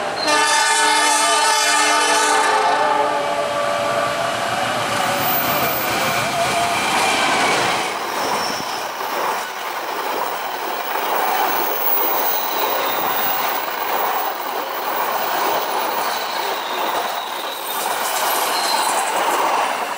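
Horn of an Indonesian KAI diesel locomotive sounding a chord for about three seconds, then the steady rush of wheel and coach noise as a passenger train passes close at speed from about eight seconds in.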